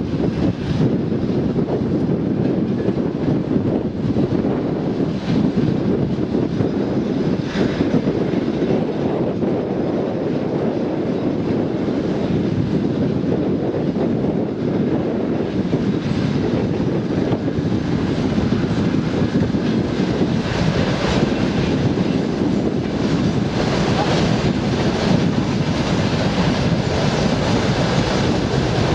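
Train running past with a steady, continuous rumble; faint clicks become more frequent in the second half.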